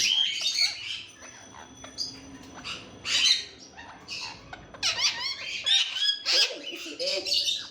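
Indian ringneck parakeet giving shrill squawks and chattering calls in bursts, with a dense run of calls about five seconds in.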